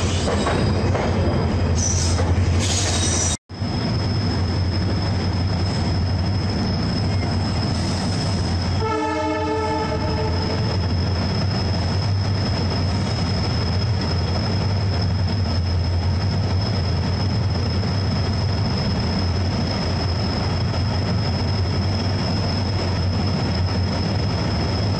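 Passenger train running slowly through a station, heard from a coach door: a steady rumble with a thin high whine over it. A train horn sounds once for about a second and a half, about nine seconds in. The sound drops out for an instant a few seconds in.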